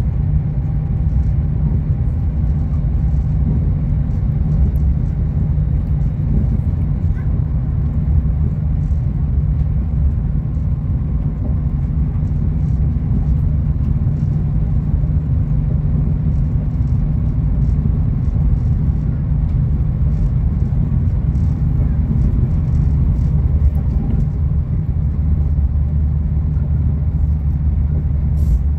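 High-speed train running at speed, heard from inside the passenger carriage: a steady low rumble.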